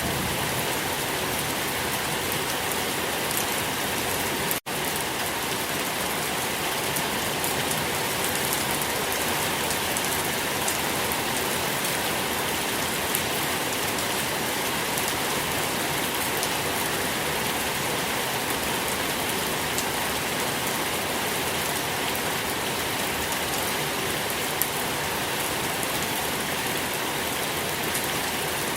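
Steady rain falling, an even hiss with faint ticks of single drops. A split-second gap in the sound comes about four and a half seconds in.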